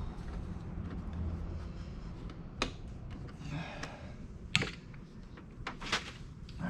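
A few sharp clicks and light knocks from parts and hardware being handled while the diesel heater is being reassembled, the loudest a little past halfway, over a low steady background.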